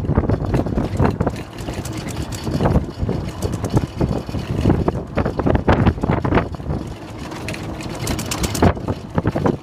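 Wind buffeting the microphone, with a low rumble and irregular short knocks.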